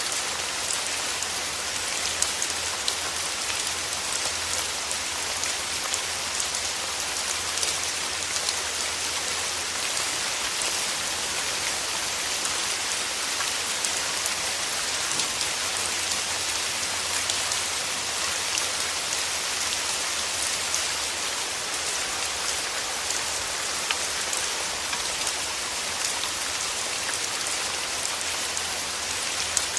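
Steady rain: an even hiss of falling rain with many small, sharp drop hits scattered through it.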